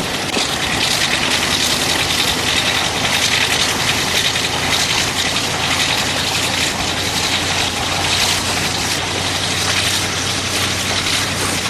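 Diesel locomotive engine running steadily, a low hum under a broad hiss.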